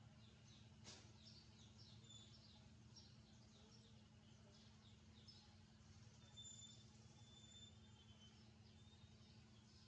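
Faint, rapid high-pitched chirping from small birds, several short notes a second, over a steady low hum. A single click sounds about a second in.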